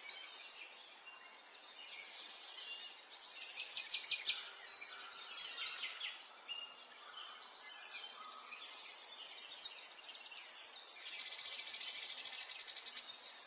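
Wild birds singing: a run of chirps and short trilled phrases, with a fast, loud trill near the end.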